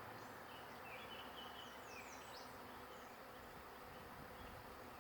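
Faint, steady buzzing of a large honey bee swarm, thousands of bees in flight as they gather on and funnel into a hive box.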